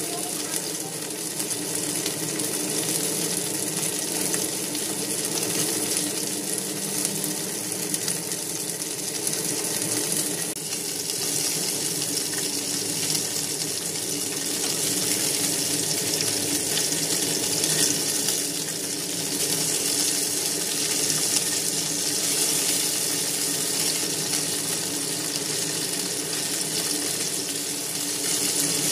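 Chicken wings sizzling steadily as they fry in a pan.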